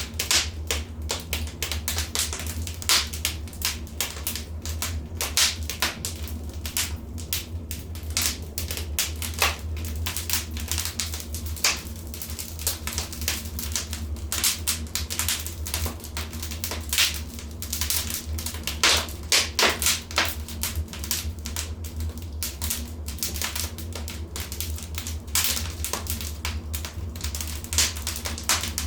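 Fire burning in a fireplace, crackling with frequent irregular pops and snaps over a steady low rumble.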